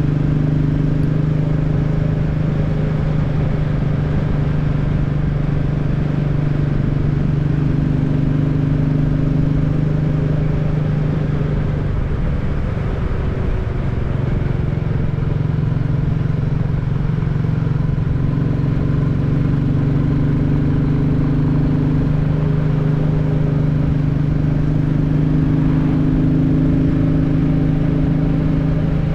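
Royal Enfield Classic 350's single-cylinder engine running at a steady cruise while riding, with wind and road rumble. About twelve seconds in, the engine note dips and shifts briefly, as in a throttle lift or gear change, then settles back to a steady cruise.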